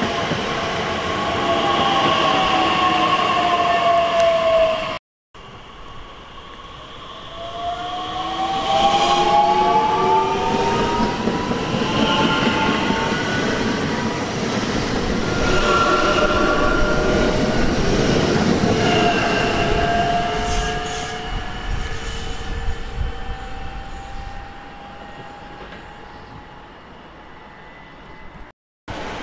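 Trains on the line, their drives whining in several pitched tones over running noise. In the first few seconds the tones slide down. After a short cut, the tones slide up as the next train grows louder, then hold steady and fade as it goes away.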